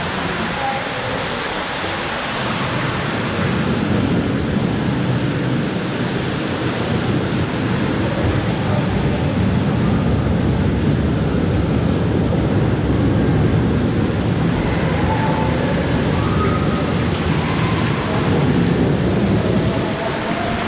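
Steady rush of falling and splashing water, growing heavier about four seconds in.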